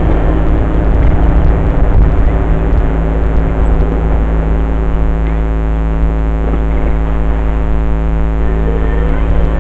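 Dirt bike engine running at a steady speed, holding an even pitch over a heavy low rumble.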